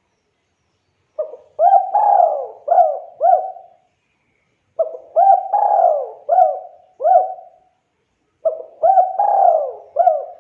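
Spotted dove (tekukur) cooing: three phrases of about five coos each, repeated every three and a half seconds or so, with short pauses between them.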